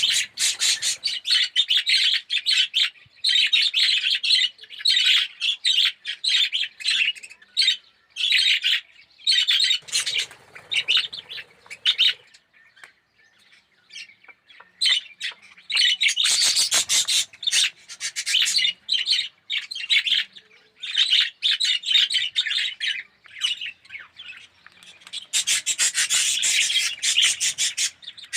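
A colony of budgerigars chattering and chirping in long, rapid bursts, with short lulls about halfway through and again near the end.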